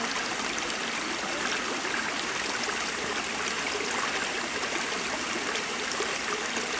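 Rainforest creek water flowing and trickling steadily over rocks, with a thin, steady, high-pitched insect drone above it.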